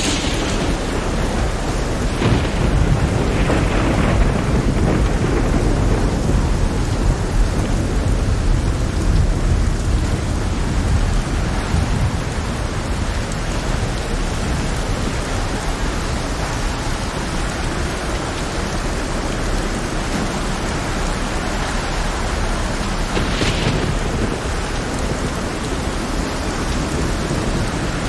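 Heavy rain with rolling thunder: a steady downpour over a deep rumble that is strongest in the first half, broken by a few short sharp crashes.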